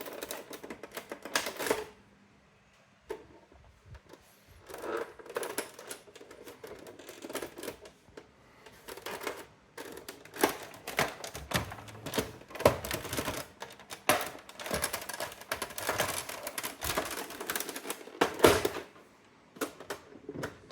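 Brother AX-425 electronic daisy-wheel typewriter printing: rapid runs of sharp mechanical clacks in bursts, with brief pauses between lines.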